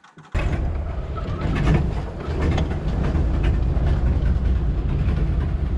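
Jeep CJ7 engine running steadily as it is driven over rough ground, with scattered knocks and rattles from the vehicle. The sound cuts in abruptly after a brief silence.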